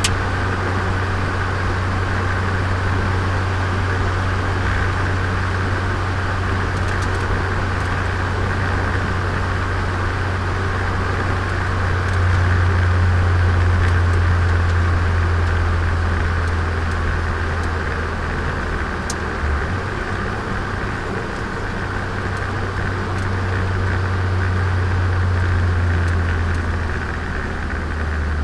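Turbocharged Nissan Micra engine and road noise heard from inside the car while driving: a steady low drone that swells a little about halfway through and again later on.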